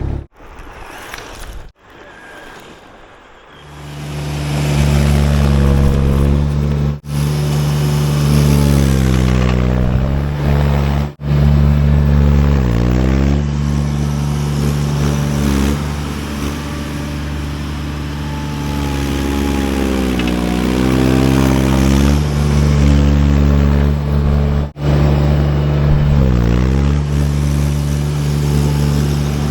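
Baumalight TRL620D mini skid steer's engine running steadily. Several times its pitch sags and comes back up as the machine is worked under load. The sound is broken by a few abrupt cuts, and the first few seconds are quieter.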